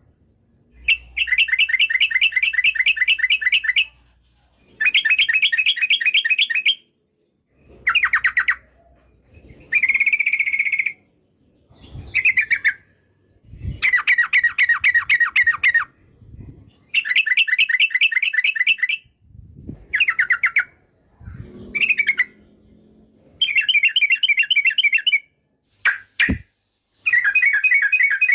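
Yellow-vented bulbul (trucukan) singing: a string of short, loud phrases of rapid chattering notes, each one to two seconds long, separated by brief pauses.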